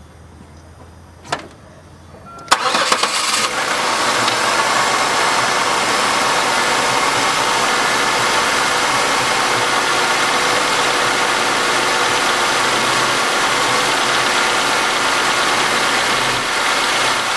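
A single click, then about two and a half seconds in the 1997 Chevy Malibu's 3100 (3.1-litre) V6 is cranked and catches on a cold start, flaring briefly before settling into a steady cold idle. This is the cold-start running that the owner checks for so-called piston slap.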